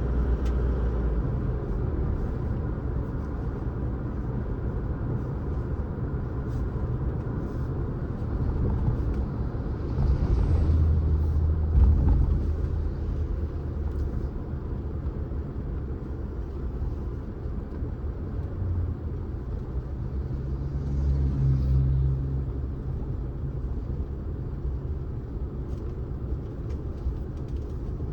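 Steady low rumble of a car driving on the road, engine and tyre noise, swelling louder about ten seconds in and again about twenty seconds in.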